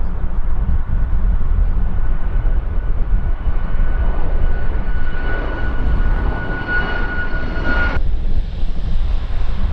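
Jet airliner's engines whining steadily and growing louder, over heavy wind rumble on the microphone. The whine cuts off abruptly about two seconds before the end.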